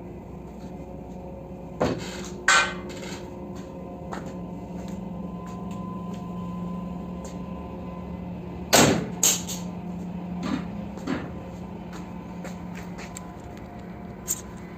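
Irregular sharp knocks like hammer blows on metal during car body repair, over a steady hum. There is a loud pair about two seconds in, another pair near nine seconds, then weaker knocks.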